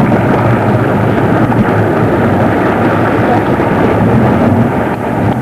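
A watercraft engine running steadily under way, heard under a loud, even rush of noise.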